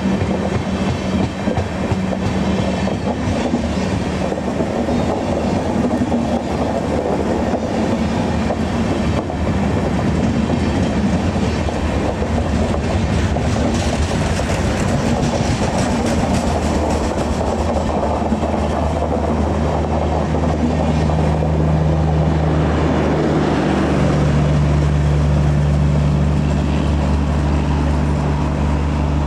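Train running on the track, wheels clattering over the rails; a steady low hum comes in about twenty seconds in and holds.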